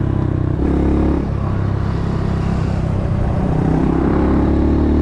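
Motorcycle engine running steadily, its note dropping about a second in and rising again later as the revs change.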